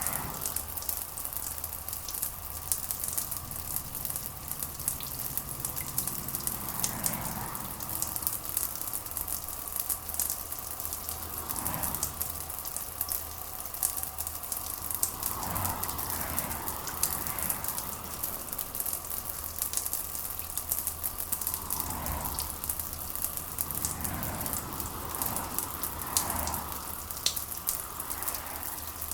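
Steady rain falling, a dense crackling patter, over a low steady hum, with a few soft muffled swells now and then.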